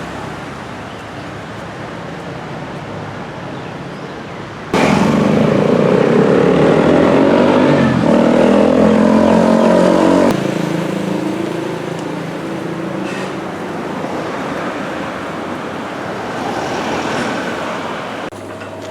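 Street traffic: vehicle engines running and passing, heard across several cut-together shots. The loudest part is a closer engine sound from about five to ten seconds in.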